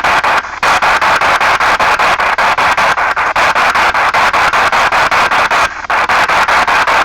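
P-SB7 spirit box sweeping through radio stations: loud chopped radio static with snatches of broadcast sound, cut about five times a second by the sweep, with two brief dropouts, one about half a second in and one near the end.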